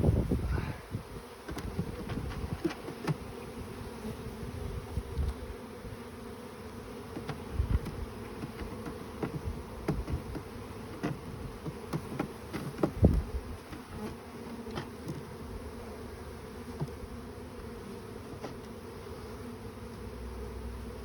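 A swarm of honeybees buzzing steadily around an open hive box, with scattered light knocks as wooden frames are set down into the box.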